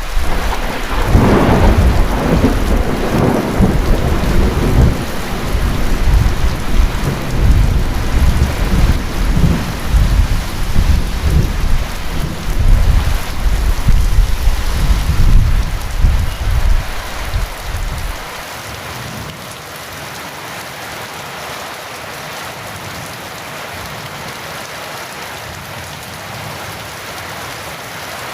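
A long roll of thunder rumbles in waves over steady heavy rain, loudest just after it begins. The thunder cuts off suddenly about two-thirds of the way through, leaving only the even hiss of the rain.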